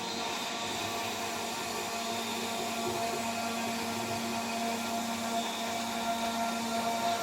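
CNC router spindle running at about 14000 RPM with a 3 mm three-flute end mill cutting, a steady whine with a higher tone from the cutter's flutes over a constant hiss of milling.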